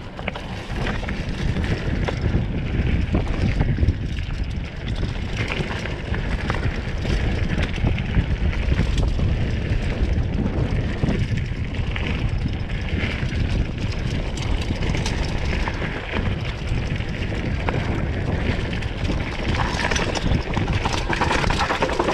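Mountain bike descending fast on a rough dirt trail: wind buffeting the microphone over the steady rumble of the tyres and frequent knocks and rattles from the bike on rough ground.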